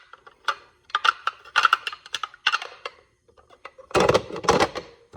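Dishes and utensils clinking and clattering while being washed up, a string of sharp knocks followed by a louder, denser clatter about four seconds in.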